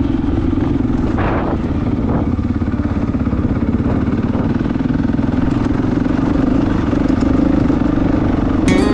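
Dirt bike engine running steadily under way, at an even pitch.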